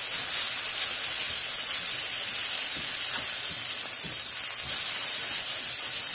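Onion masala with freshly added ground spices sizzling in hot oil in a wok, a steady frying hiss, while a spatula stirs it.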